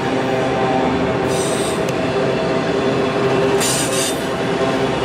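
BNSF autorack freight cars rolling past with a steady rumble. Two brief high-pitched wheel squeals come through, about a second and a half in and again about four seconds in.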